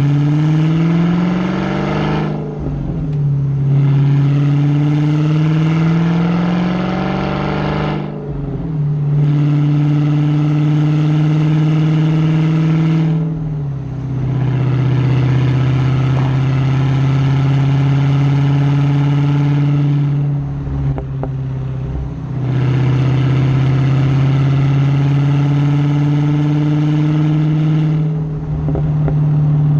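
Dodge Hellcat's supercharged 6.2-litre V8 exhaust under throttle. The engine note climbs at the start and is then held fairly steady, broken by five short dips where the throttle is lifted.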